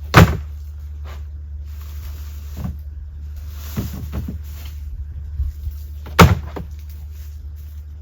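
Two sharp, loud knocks about six seconds apart, with a few softer knocks between them, over a steady low hum.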